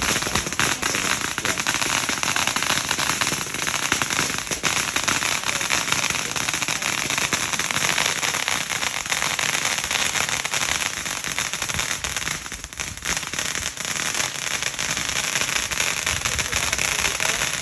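Fireworks crackling: a dense, continuous mass of small pops and crackles from bursting shells, easing briefly about two-thirds of the way through.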